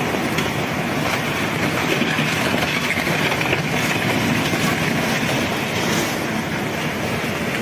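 A steady, loud roar of rushing floodwater.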